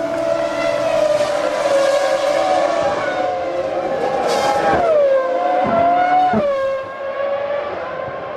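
1998 Formula One cars' V10 engines running at high revs, their pitch falling sharply about five seconds in and again about a second and a half later as they change down.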